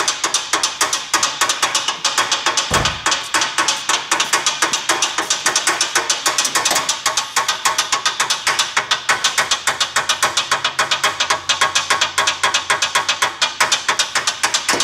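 Honda Civic engine running with a rapid, even ticking-knocking, several strikes a second. The owner cannot tell whether it is valve tick or rod knock. A low thump comes about three seconds in.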